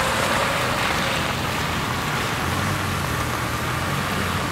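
Steady running of a motor vehicle: a low hum under an even hiss, with a faint steady high tone.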